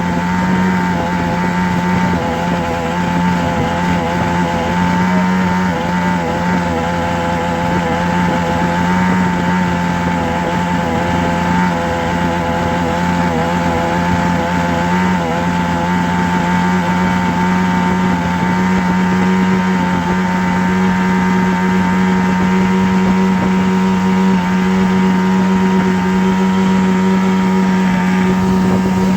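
A continuous, unchanging droning hum: a strong low tone with a stack of fainter, slightly wavering higher tones over a steady hiss.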